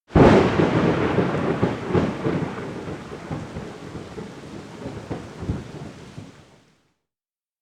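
A thunderclap over falling rain: it breaks suddenly, then rumbles on with a couple of swells and dies away over about six and a half seconds, ending in silence.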